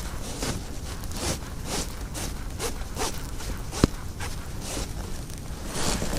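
Footsteps at a steady walking pace, about two a second, with one sharp click a little past halfway.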